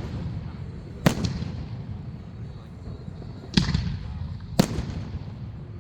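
Aerial fireworks shells bursting: three sharp bangs, about a second in, at three and a half seconds and a second after that, each trailed by a low rumbling echo.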